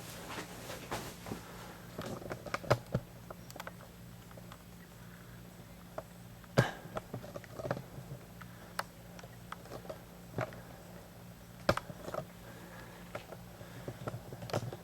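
Scattered clicks and knocks of hard plastic being handled as the Dyson DC35 stick vacuum's dust bin is opened and emptied of collected sand, with a few sharper knocks a little after two seconds, at about six and a half and near twelve seconds in, over a faint steady hum.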